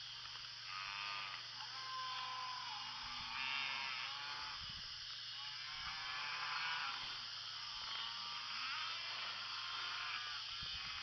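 Cattle bawling again and again, long bending calls one after another, over a steady low engine hum.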